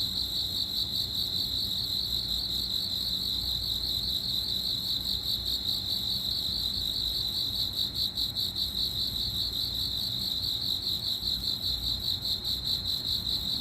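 Crickets chirping, a continuous high-pitched trill of rapid pulses.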